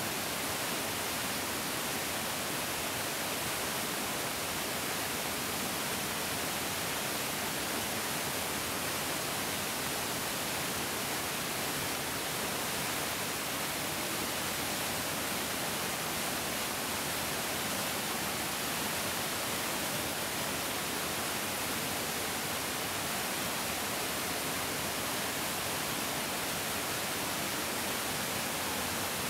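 Mountain stream rushing steadily over rocks: an even, unbroken hiss of flowing water with no single splashes standing out.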